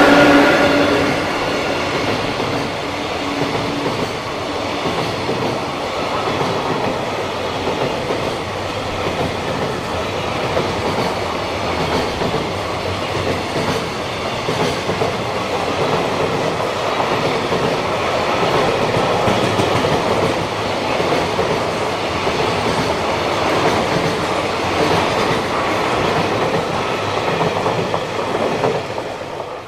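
EF66 electric locomotive passing at speed, its humming tone loudest at the start and fading over the first few seconds. Then comes the steady rumble and clickety-clack of a long freight train of Koki 107 container wagons rolling by, dropping away sharply near the end as the last wagon passes.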